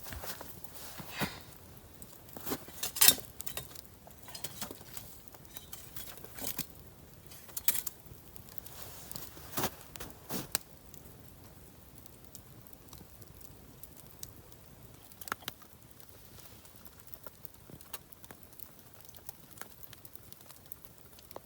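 Wood campfire crackling: scattered sharp pops and clicks, busiest in the first half, with the loudest pop about three seconds in.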